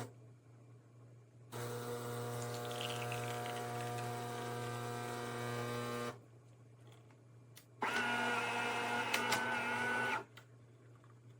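De'Longhi Magnifica Start espresso machine running twice: a steady mechanical hum lasting about four and a half seconds, then a louder, brighter hum lasting about two seconds, each starting and stopping abruptly.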